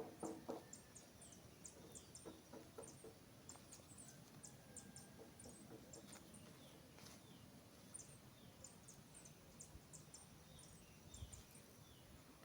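Faint birds chirping in the background: many short, high chirps throughout, with a few short falling calls among them. There are a few soft knocks in the first second.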